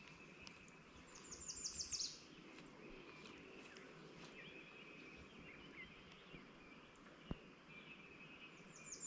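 Faint outdoor ambience with birdsong. A quick trill of high, falling chirps comes about a second in and again at the end, with softer bird calls in between and a single faint click shortly before the end.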